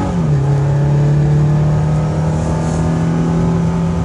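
Lexus car's smooth, steady engine note, a clean pitched hum with many overtones that steps down slightly in pitch just after the start; the refined sound Lexus engineers to achieve.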